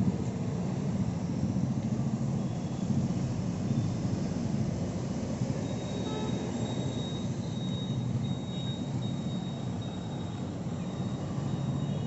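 Road traffic with trucks and buses going by: a steady low engine and tyre rumble, with a faint high whine joining about halfway through.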